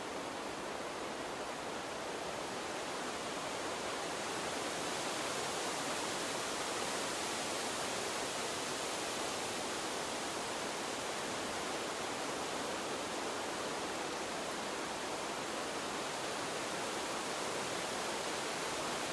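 Gentle water stream running steadily, with a soft breeze through trees; the rushing grows a little louder and brighter about four seconds in, then holds even.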